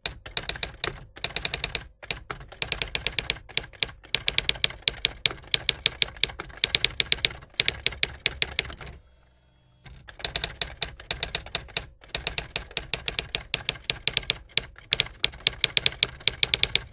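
Rapid key clicks of typing, in quick runs broken by short pauses, with a silent gap of about a second around nine seconds in.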